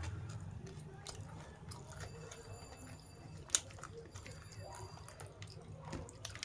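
A person chewing and biting food close to the microphone, with small wet clicks and one sharp click about halfway through.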